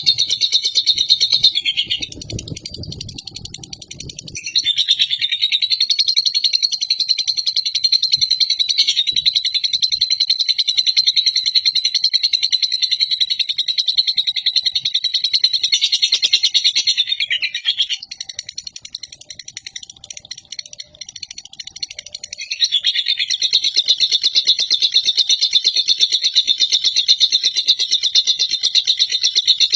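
Lovebird singing its long, rapid chattering trill, the 'ngekek panjang' song prized in Indonesian lovebird contests: shrill and high, in unbroken runs of over ten seconds, with short breaks about two seconds in and about two-thirds of the way through.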